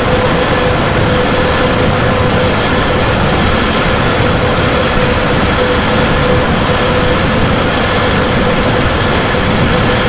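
Amplified suitcase being rubbed on its underside with an amplified contact-miked toy shovel, making harsh, loud, unbroken noise with a steady mid-pitched hum over it.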